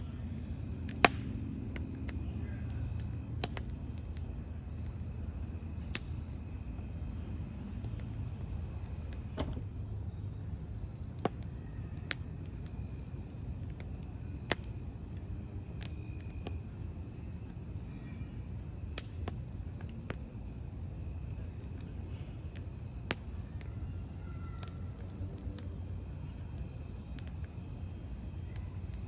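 Crickets trilling steadily over a crackling wood campfire. The burning wood gives scattered sharp pops, the loudest about a second in.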